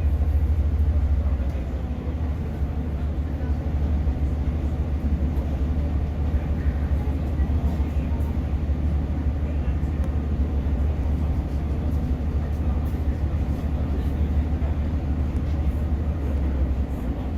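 Class 150 diesel multiple unit heard from on board: a steady low engine drone with the rumble of wheels on rail. The drone eases slightly about two seconds in and then runs on evenly.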